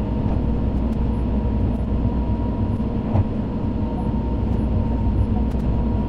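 Running noise of a Tobu 100 series Spacia express train heard inside the carriage: a steady rumble with a faint constant whine and a few light clicks.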